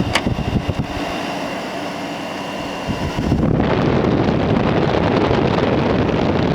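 Frigidaire 8,000 BTU window air conditioner running steadily, with a click right at the start. About three and a half seconds in, a louder wind rumble of air buffeting the microphone takes over.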